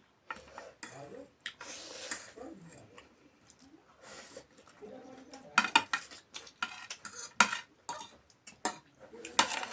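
Eating at a meal: clinks of utensils against dishes, several of them close together around the middle and near the end, between softer handling and chewing noises.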